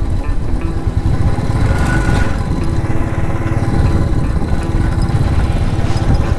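Cruiser motorcycle engine running steadily, with a dense low pulsing beat.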